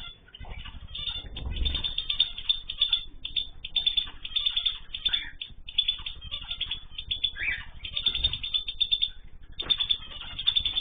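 A crowd of small caged pet birds chirping and twittering busily, many rapid high calls overlapping almost without pause, with soft irregular low thumps from the birds moving about.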